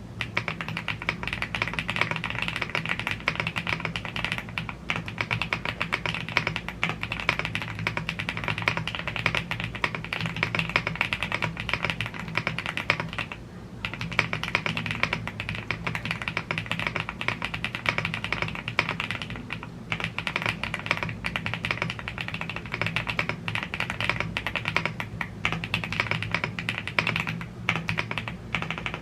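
Typing on a YUNZII AL75 gasket-mounted aluminium mechanical keyboard with Blue Grey tactile switches and PBT keycaps: a fast, continuous run of key clacks with a brief pause about thirteen seconds in.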